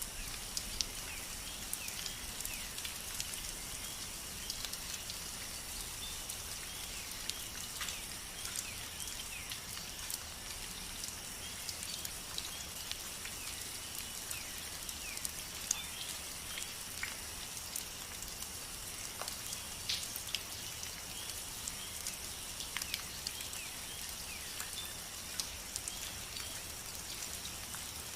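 Steady rain falling, with many individual drops landing as short sharp ticks over an even hiss.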